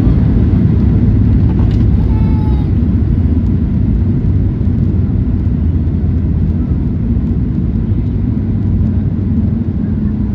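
Cabin noise inside a Boeing 737 MAX 9 during landing: a loud, dense low rumble of its CFM LEAP-1B engines, airflow and landing gear, slowly getting quieter as the jet slows.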